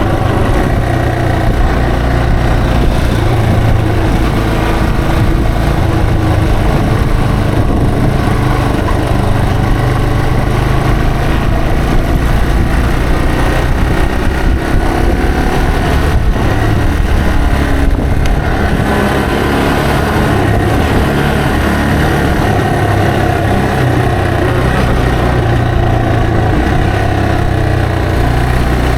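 Yamaha TW225's air-cooled single-cylinder engine running steadily under way, its pitch shifting a few times as the throttle changes.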